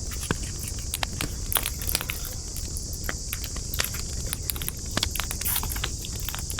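Campfire of burning wood crackling: irregular sharp pops and snaps, several a second, over a steady high hiss and a low rumble.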